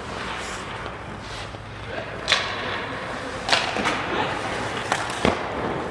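Sports practice in a large echoing hall: a handful of sharp knocks and thuds, the loudest about two seconds in, over a steady murmur of background noise and voices.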